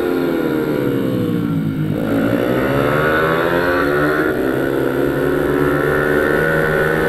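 Pit bike engine at speed: its note falls for about two seconds as the bike slows, then climbs again as it accelerates and keeps pulling.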